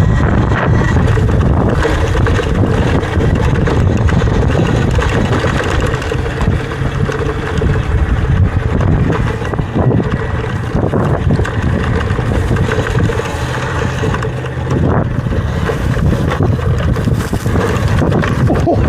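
Wind noise on the microphone of a rider on a Talaria electric dirt bike, a steady low rumble, with a faint steady whine under it in the first half.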